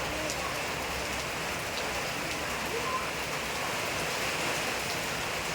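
Steady heavy rain falling, an even hiss with scattered individual drops ticking.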